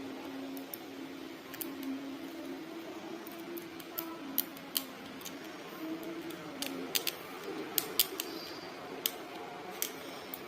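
Short, sharp, irregular clicks and snips of hand work while insulating tape is put on a wire joint, most of them in the second half, over a low steady background hum.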